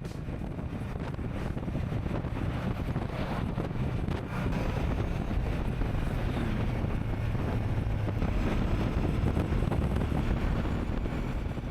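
Heavy wind buffeting the microphone: a dense, fluttering low rumble that gets a little louder about four seconds in.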